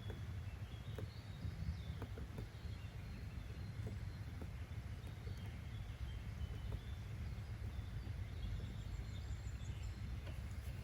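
Nature-sounds ambience: a steady low rumble with faint, scattered bird chirps and a few soft clicks.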